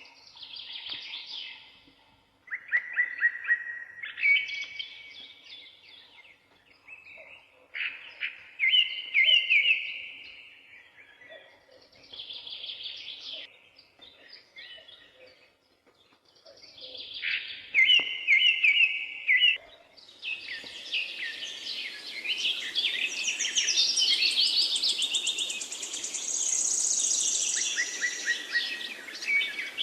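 Forest birds singing: separate short warbled phrases come every few seconds. About two-thirds of the way in, several birds sing over one another in a denser, higher chorus above a steady hiss.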